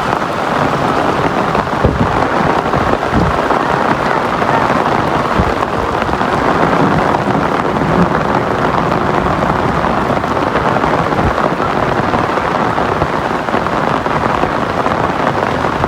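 Loud, steady rushing of water, continuous throughout, with a few low thumps in the first few seconds.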